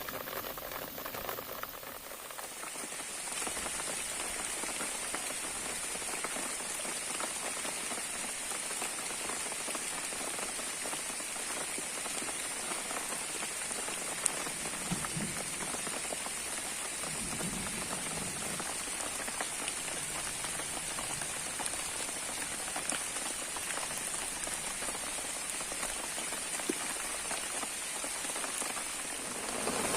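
Heavy rain falling steadily, an even hiss of drops, with a steady high thin tone running through it from about two seconds in.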